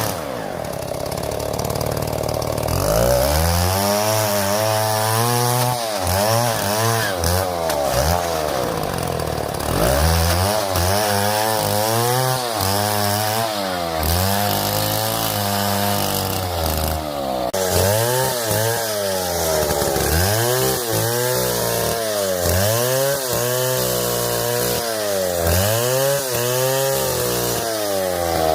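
Chainsaw cutting through wood. Its engine pitch drops under load and climbs back again and again, about every one to two seconds.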